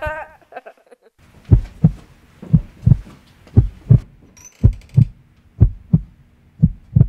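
Heartbeat sound effect: a steady lub-dub of paired low thumps, about one beat a second, starting about one and a half seconds in.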